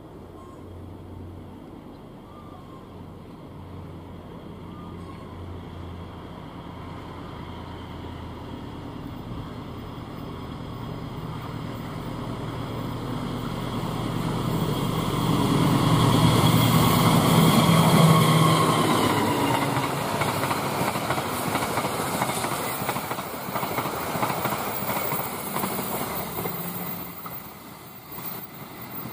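Passenger train passing at speed behind a diesel locomotive. The engine grows steadily louder as it approaches and peaks as the locomotive goes by, its note dropping in pitch. The carriages then rumble and clatter along the rails, fading away near the end.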